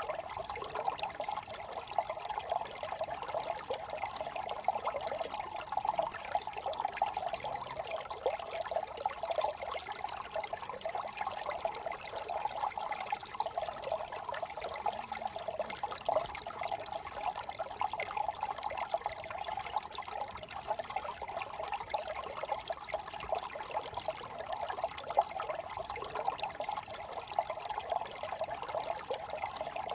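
Shallow brook trickling and babbling over stones, a steady, busy gurgle of small ripples.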